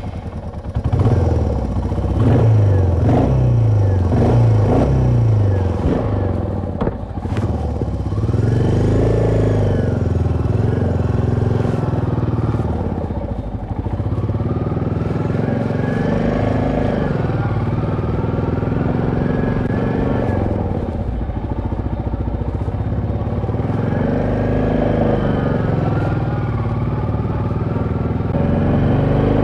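Royal Enfield Meteor 350's single-cylinder engine breathing through a Royal Enfield slip-on silencer as the bike is ridden: several quick rises in pitch near the start as it pulls away through the gears, then a steady run with the engine note swelling and dropping back a few times.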